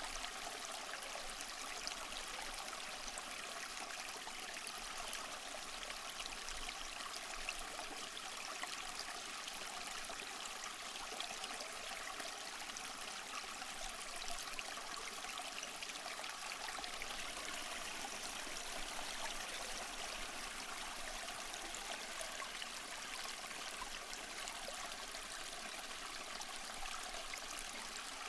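Small moss-covered waterfall splashing and trickling steadily: an even, hissing rush of falling water with fine splashes.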